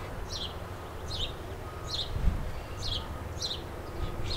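A bird calling over and over, a short falling high note about twice a second. A single low thump comes about two seconds in.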